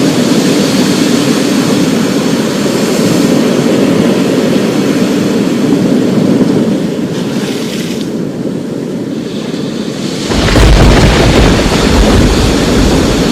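Thunderstorm ambience: a steady rush of storm noise, then about ten seconds in a deep, loud rumble of thunder rolls in.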